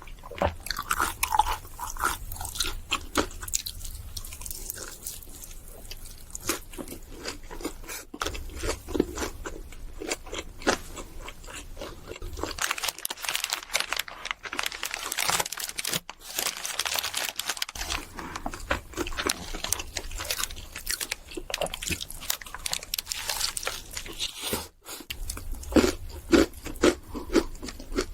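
Close-miked crunchy bites and chewing: repeated sharp crackles of crisp food breaking between the teeth, in irregular runs.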